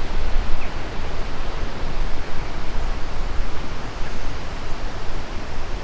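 Wind noise on the microphone: a loud, even rushing that rises and falls, heaviest in the low end.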